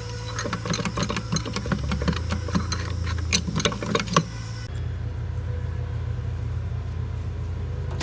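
Wheel loader engine running steadily, with irregular sharp clicks and knocks over roughly the first four seconds, then only the engine.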